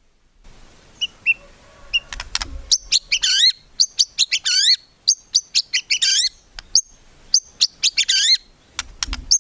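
White-rumped shama (murai batu) in full song: a run of varied phrases, with sharp chirps, clear whistled notes that swoop up and down, and quick rattling runs of notes, starting about a second in.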